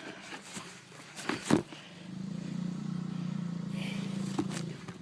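A couple of sharp knocks, then an engine hums steadily at an even pitch for about three seconds and stops.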